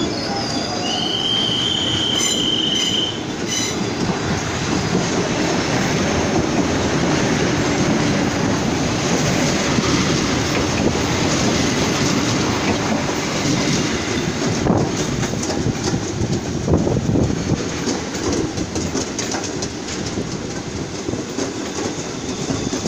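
Train running past close by: a steady rumble and rattle of wheels on the rails, with a brief high, steady squeal about a second in.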